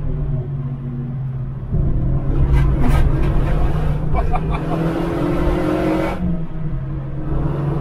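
Renault Mégane RS turbo four-cylinder engine pulling at speed, heard from inside the cabin as a steady drone. A loud rushing noise swells in from about two seconds in and stops abruptly about six seconds in.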